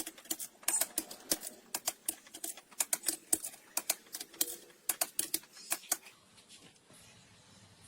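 Rapid, irregular clicking and tapping, several sharp clicks a second, which stops about six seconds in and leaves a faint low hum.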